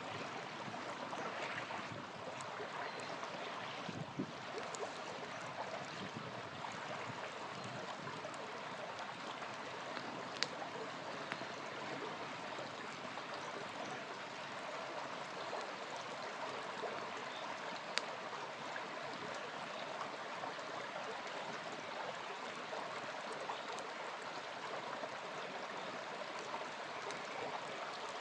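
Small river flowing steadily, with a few sharp crackles and pops from a campfire.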